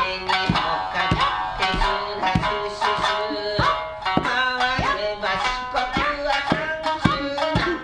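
A shamisen played in traditional Japanese style: a steady run of plucked notes, each struck sharply and ringing off, some sliding in pitch.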